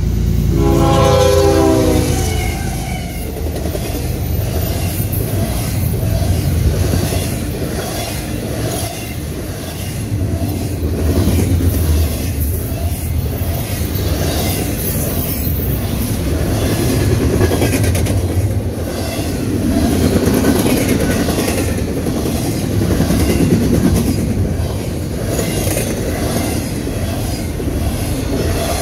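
A CSX diesel locomotive blows its horn as it passes, the chord dropping in pitch over the first two seconds or so. Then a long double-stack intermodal freight train rolls by with a steady rumble and a rhythmic clickety-clack of wheels on the rails.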